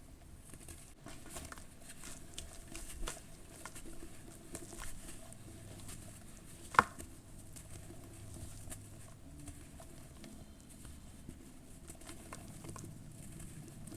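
Lumps of charcoal ash crumbling in water: faint, scattered little crunches and crackles, with one sharp snap about halfway through.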